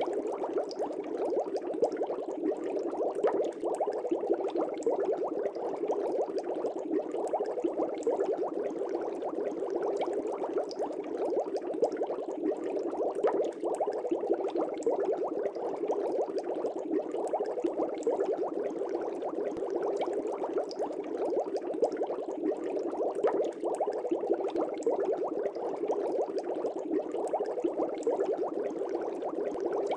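Air bubbles bubbling steadily in aquarium water: a dense, continuous stream of small bubbles gurgling and popping.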